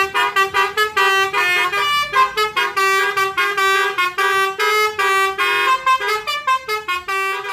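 Basuri multi-tone bus horn (telolet horn) playing a rapid tune of short toots, several notes a second at changing pitches.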